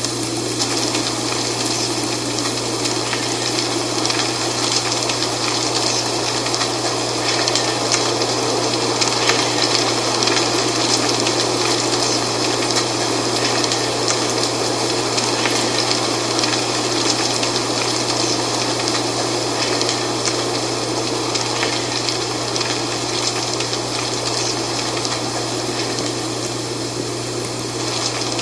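Dry fall leaves rustling and crackling in a steady wind, with a constant low hum underneath.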